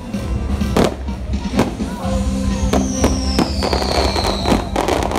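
Fireworks show: a rapid series of firework bangs and crackles over show music, with a whistle falling in pitch over about two seconds in the middle.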